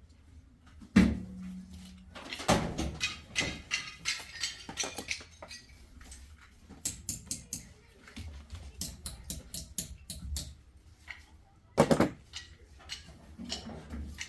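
A string of light clicks and knocks, with a heavy thump about a second in and another near the end: objects being handled and set down in a small room.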